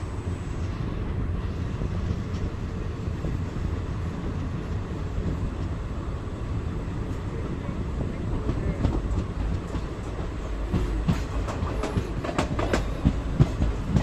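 Express passenger train running along the track: a steady low rumble of the coaches' wheels on the rails, with a run of sharp clicks in the second half as the wheels cross rail joints.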